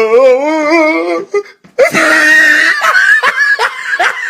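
A loud human voice wails with a wobbling pitch for about a second and breaks off. After a brief silence comes a harsh, loud scream-like cry, then a run of quick, short rising vocal yelps.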